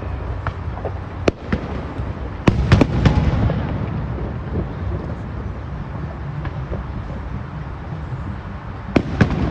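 Aerial fireworks bursting with sharp bangs and cracks. A loud cluster of bursts comes about two and a half seconds in, followed by a low rumbling tail, and more bangs come near the end.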